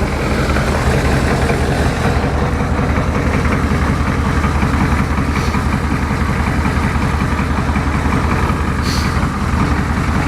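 Ford 7.3 IDI V8 diesel in a 1988 Ford F250 idling steadily just after a cold start, running a little rough because it has not yet warmed up.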